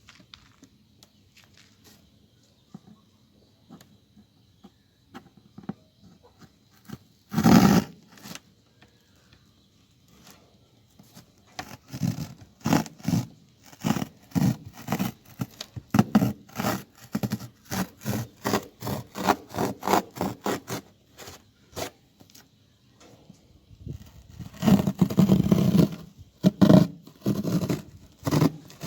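Repeated scraping or rubbing strokes, about two a second, as of hand work on wood or ground, with a single louder rush about seven seconds in and a denser flurry of scraping near the end.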